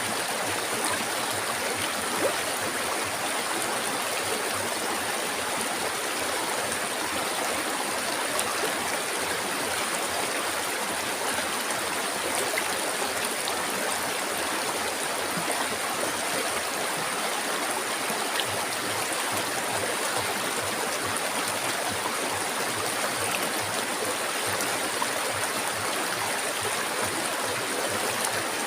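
River water flowing over rocks, a steady, unbroken rushing and babbling.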